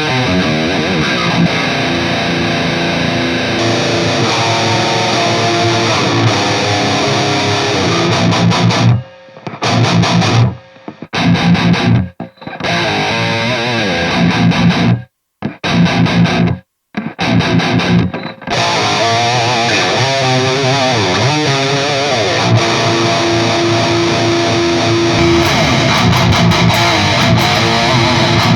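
High-gain distorted electric guitar playing a metal riff: an Epiphone Les Paul Custom on its EMG 81 bridge pickup through the red channel of an EVH 5150 III EL34 50-watt amp, recorded through a miked Mesa 2x12 Rectifier cabinet and a Two Notes Captor X impulse response of that cab. About nine seconds in the riff turns stop-start for around ten seconds, with tight chugs cut off sharply into brief silences, then goes back to continuous playing.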